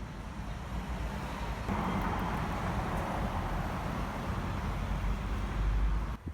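Street traffic noise: a steady rumble of road vehicles that swells from about two seconds in, as a vehicle comes close, and breaks off suddenly near the end.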